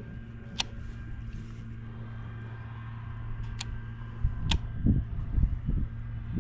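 A small motor humming steadily, with a few sharp clicks and some low rumbling knocks in the last two seconds.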